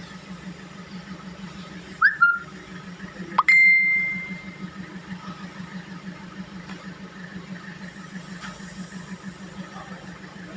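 A steady, pulsing low machine hum, with a short sharp clink about two seconds in and a louder metallic ding about three and a half seconds in that rings on one clear high tone for about a second.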